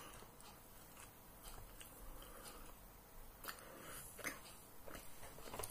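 A person quietly chewing a ham sandwich: soft, wet mouth clicks, a few louder ones in the second half.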